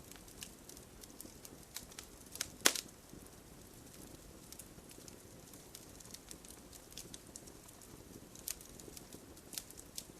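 Wood fire crackling in an open fireplace: a low steady rustle of burning with scattered sharp snaps, the loudest a pop about two and a half seconds in.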